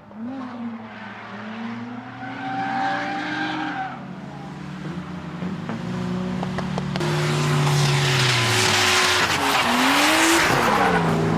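Drift car's engine revving up and down as it slides, with tyre squeal that swells loud and takes over in the second half.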